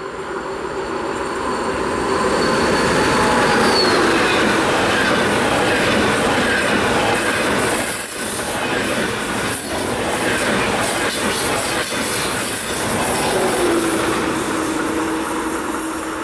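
A train passing on the tracks, its wheels on the rails making a dense noise that swells over the first few seconds and then holds. Faint clicks over the rail joints come through, along with a thin tone that drops in pitch near the end.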